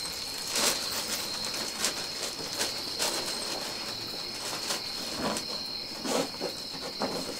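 Crickets chirring in one steady high pitch, with a few short sharp clicks and rustles over it.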